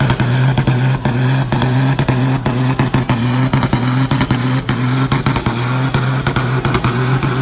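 Racing truck engines running hard in a steady drone, with many sharp clicks and cracks over it.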